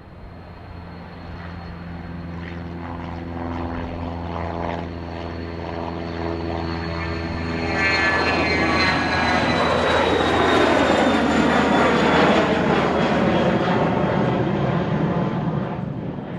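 An airplane passing close by: a steady engine drone with a high whine that drifts slightly lower in pitch. It grows louder into a rushing sound that peaks about ten to twelve seconds in, then eases off near the end.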